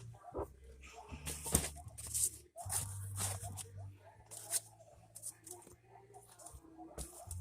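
Irregular rustling and scraping handling noises with short clicks, over a low rumble of wind or handling on the microphone.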